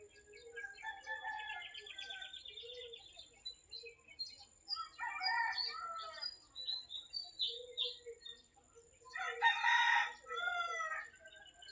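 A rooster crowing twice, about five seconds in and again more loudly near the end, among small birds chirping and trilling.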